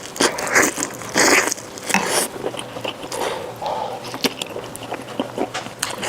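Close-up eating sounds: biting into and chewing a soft, braised tiger-skin pork trotter, with a few louder wet bites in the first two seconds or so, then quieter chewing and lip smacks.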